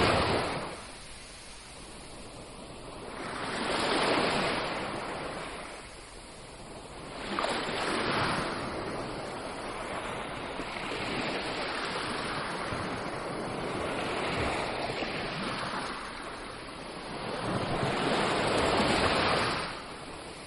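Sea waves breaking and washing in, each surge swelling and then falling away: surges at the start and about four and eight seconds in, a longer steady wash after that, and another big surge near the end.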